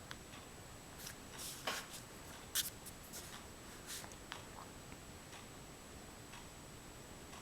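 Oil pastel being rubbed and scraped on paper: a run of short, faint scratchy strokes over the first four and a half seconds or so, one sharper scrape about two and a half seconds in, over a thin steady high whine.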